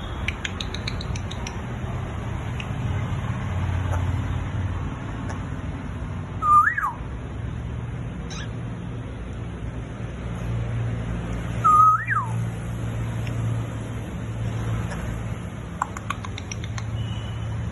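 African grey parrot whistling twice, about five seconds apart; each whistle is a short held note that sweeps up and then drops. A steady low hum runs underneath.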